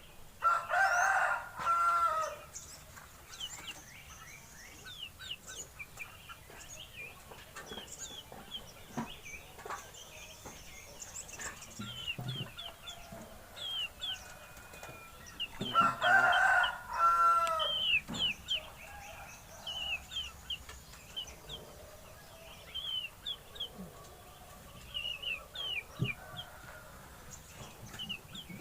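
A rooster crowing twice, once right at the start and again about halfway through, each crow lasting about two seconds. Small birds chirp in short high notes throughout.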